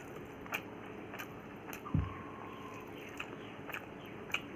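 A person chewing a mouthful of food, with wet mouth clicks every half second or so and a single low thump about two seconds in.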